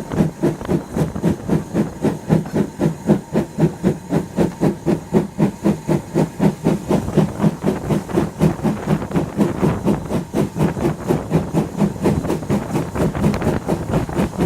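LMS Ivatt Class 2MT steam tank engine 41312 working under steam, its exhaust chuffing in a steady rhythm of about four beats a second. The beats grow closer together and less distinct over the last few seconds.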